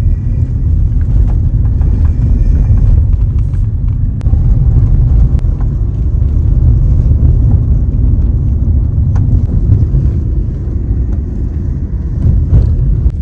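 Car driving on the road, heard from inside as a loud, steady low rumble.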